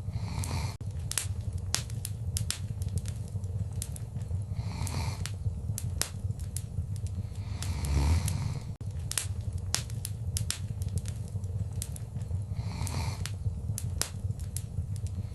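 Wood fire crackling in a fireplace: frequent sharp pops and snaps over a steady low rumble of flames, with soft rushing swells every few seconds and the loudest low rush about eight seconds in.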